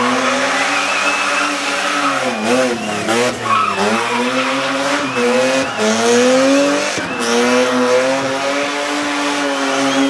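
A race car's engine at full effort on a hillclimb. Its pitch climbs and falls repeatedly, with sudden drops about two, three, six and seven seconds in as it shifts gear or lifts off.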